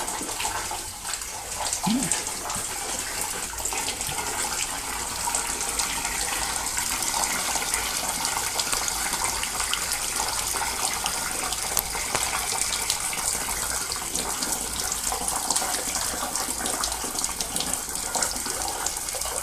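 Water from a hose running steadily into a steam boiler during a wash-out, splashing and rushing as it flushes out sludge and oil.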